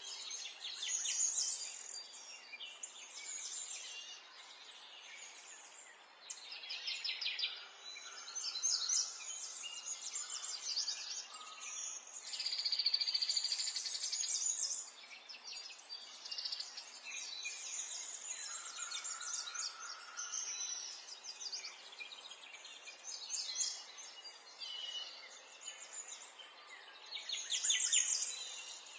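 Several songbirds chirping and trilling, their calls overlapping and coming in quick runs throughout, over a faint steady hiss.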